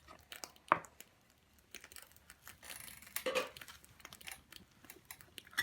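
Scattered light clicks and knocks, with one sharper tick under a second in and a brief rustle around the middle.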